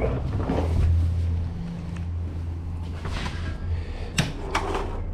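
Hand tools being handled while a Torx bit is tried in an underbody screw: rustling and clatter, with two sharp clicks a little after four seconds in, over a steady low hum.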